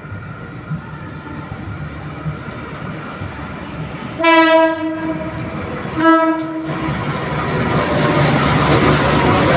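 Diesel locomotive of a Sembrani passenger train sounding its horn twice, a longer blast about four seconds in and a shorter one about two seconds later, while the train approaches at speed. The rumble and wheel clatter of the train grow steadily louder toward the end as it runs through the station.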